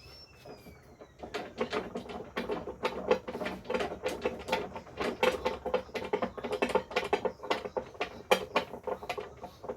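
A rapid, irregular run of light knocks and clicks, several a second, starting about a second in, from work on a wooden panel being glued and clamped.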